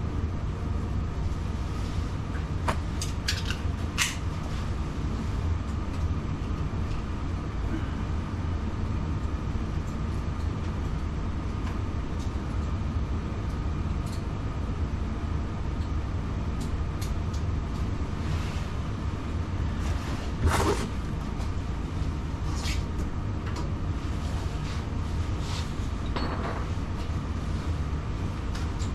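Scattered clicks and knocks of tools and parts being handled during water heater installation work, over a steady low hum. The loudest knock comes about twenty seconds in.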